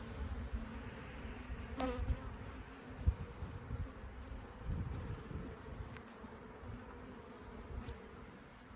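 Honeybees buzzing in a steady hum around an opened hive during a frame inspection, with a couple of short sharp knocks about two and three seconds in.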